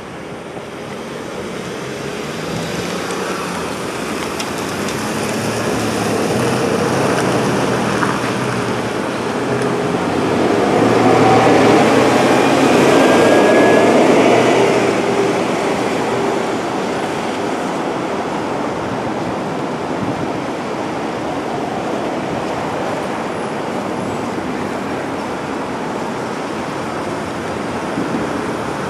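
Street traffic noise, with a vehicle passing close by about halfway through, swelling and then fading back to the steady hum of the road.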